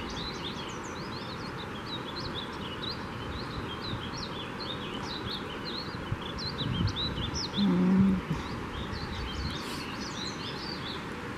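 Many small birds chirping, a steady stream of short high chirps over constant background noise, with a brief low voice-like sound about eight seconds in.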